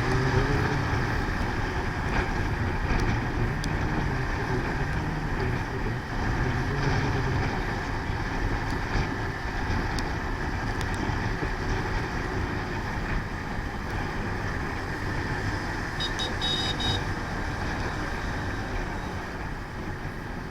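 Motorcycle riding at speed: the engine runs steadily under rushing wind and road noise on the microphone. A brief high-pitched beeping comes about three-quarters of the way through.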